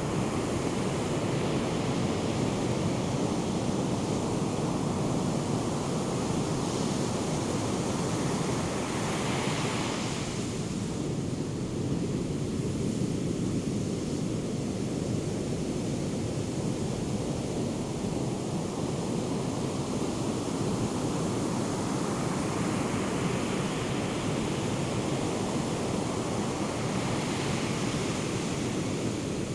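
Ocean surf from a hurricane swell: a steady rush of breaking waves, with the hiss of a wave crashing and washing in about nine seconds in and again near the end. Wind noise on the microphone underneath.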